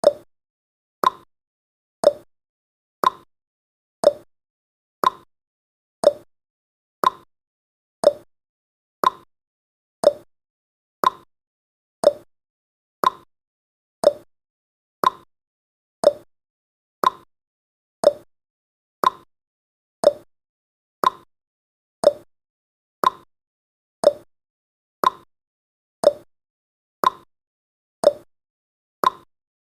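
Clock-style ticking sound effect of a countdown timer: one short tick a second, alternating between a higher and a lower tick like a tick-tock.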